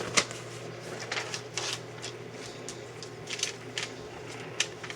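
A sheet of paper being handled and folded, with irregular short rustles and crinkles as it is creased.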